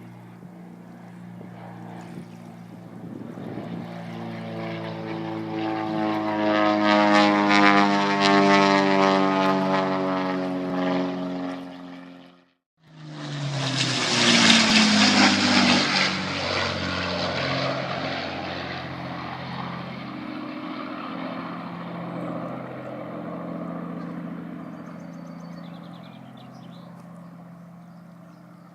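Piston-engined propeller aircraft flying low overhead. The engine drone grows louder as it approaches, cuts out briefly just under halfway, then peaks again and drops in pitch as it passes and fades away.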